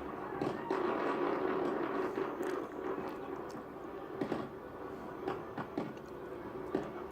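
Scattered sharp clicks and crackles, irregular and a few a second, over a steady low hum.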